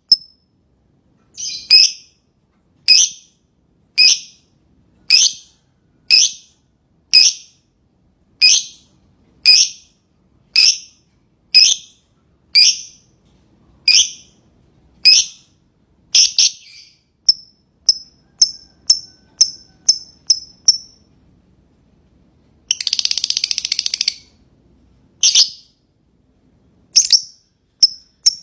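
Lovebird calling with sharp, high chirps about once a second. The chirps turn faster and shorter, then break into a burst of rapid chatter a little over a second long, and a few single chirps follow.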